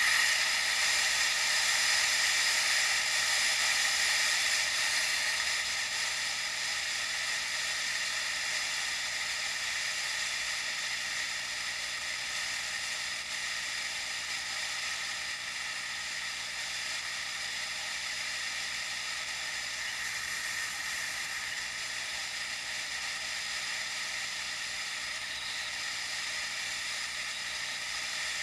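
Steady rushing hiss of wind and road noise on an action camera carried on a moving bike, easing off a little after about five seconds.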